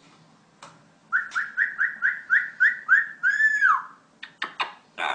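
A talking parrot whistling: a quick run of about eight short notes, roughly four a second, then one longer note that rises and falls away. A few short clicking sounds follow near the end.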